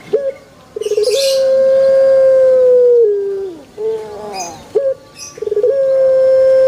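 Male puter (Barbary dove) cooing twice. Each coo opens with a short rising note and a brief rolling trill, then holds one long steady note for about two seconds before dropping away at the end.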